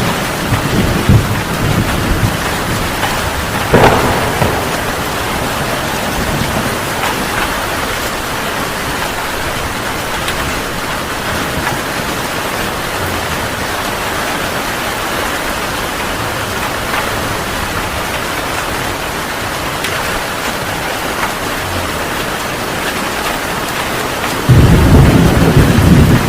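Heavy rain falling steadily in a thunderstorm. There is a sharp crack about four seconds in, and a loud low rumble of thunder sets in near the end.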